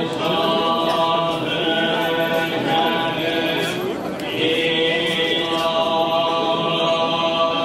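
Group chanting in long held tones, two phrases of about four seconds each with a short break between them.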